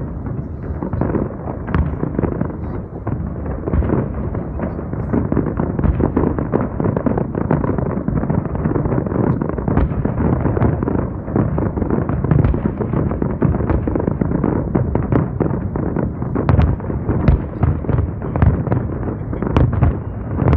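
Fireworks display: a dense, continuous barrage of shell bursts and crackling, with some sharper reports near the end.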